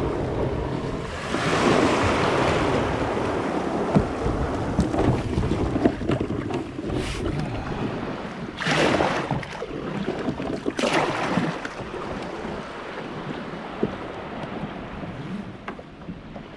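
Ocean surf washing around a kayak being launched, with wind buffeting the microphone. A long wash comes near the start and two shorter surges follow later.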